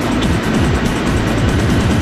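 Music over the steady running noise of a TGV high-speed train at about 510 km/h.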